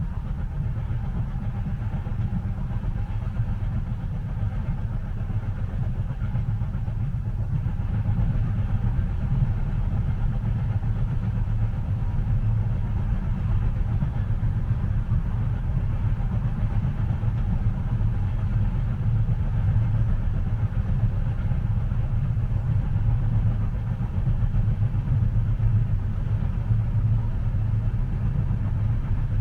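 Steady low rumble of a train in motion as heard from inside the carriage, continuous and even, getting slightly louder about eight seconds in.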